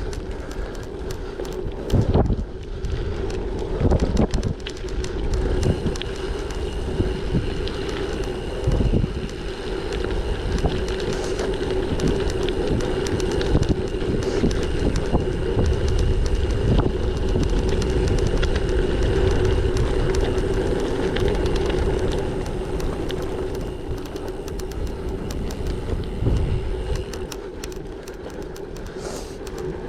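Gravel bicycle rolling along, with a steady tyre hum and gusty wind rumble on the microphone. Occasional knocks and rattles come from the bike over bumps.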